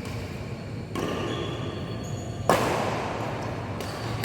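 Badminton racket striking a shuttlecock: one sharp, loud hit about two and a half seconds in that rings on through a large hall, over steady hall noise.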